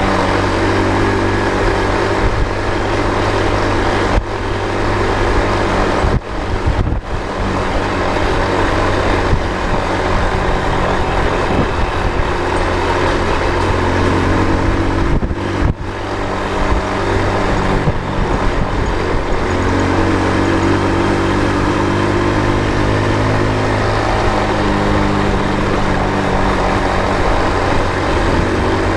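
A motor vehicle engine running steadily with road noise, its pitch shifting up and down, and the sound dipping briefly twice.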